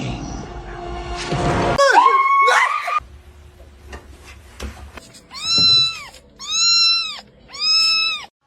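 A cat meowing three times in a row, each meow high-pitched, under a second long, and rising then falling in pitch, about a second apart. Before them come a couple of shorter gliding cries.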